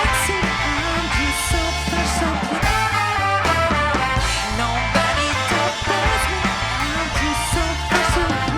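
Soul band playing live, an instrumental stretch with a pulsing bass line and drums under the pitched instruments.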